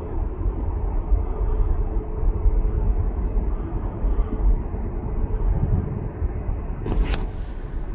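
Steady low jet-engine rumble from a four-engine Airbus A340 climbing away after takeoff, with a faint hum on top. A brief rush of noise comes near the end.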